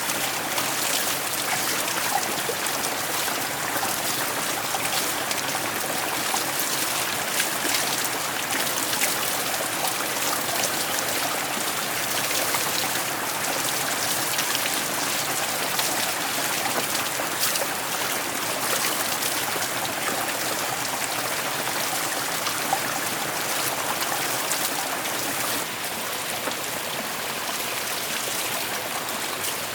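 Steady rushing and pattering of water, unbroken and even in level throughout.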